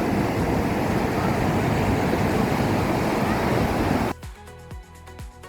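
Ocean surf breaking, with wind buffeting the microphone. About four seconds in it cuts off abruptly and background music with a steady beat takes over.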